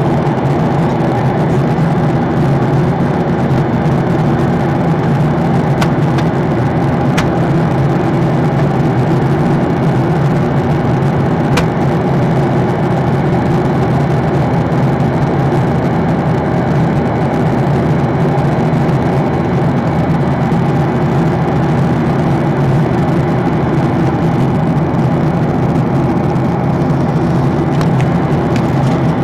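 Airliner cabin noise in flight: the steady, unbroken drone of the engines and airflow heard from inside the cabin, with a few faint clicks.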